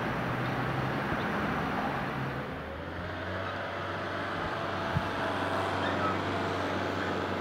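Steady hum of road traffic and engines, with one brief knock about five seconds in.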